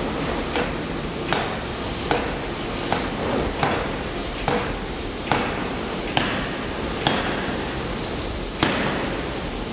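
Hydraulic open-die forging hammer striking the workpiece in a steady run of sharp blows, about one every 0.8 seconds, with a slightly longer pause near the end, over steady background noise.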